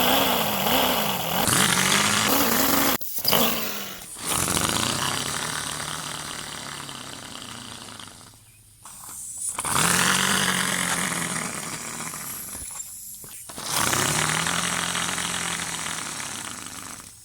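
An engine-like sound revving up three times, each time with a sudden rise and then a slow fade over a few seconds, with short gaps between.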